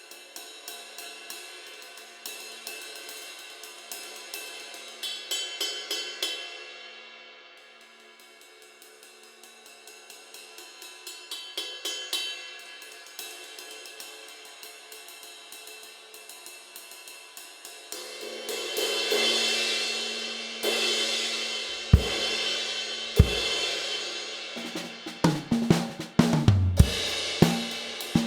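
Zildjian 22" K Custom Medium Ride cymbal played with a stick in a steady ride pattern, swelling louder twice. Partway through it is ridden harder into a louder wash. Near the end, bass drum and snare hits from a Yamaha Beech Custom kit join the ride.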